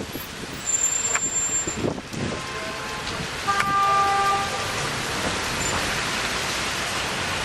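Rain and passing traffic on a wet city street, a steady hiss, with a car horn sounding once for about a second a little past the middle.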